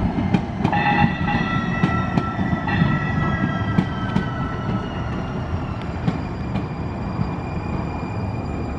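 MAX light-rail train pulling into the stop: a high whine of several tones that falls slowly in pitch as the train slows, over a rumble with scattered clicks from the wheels on the track.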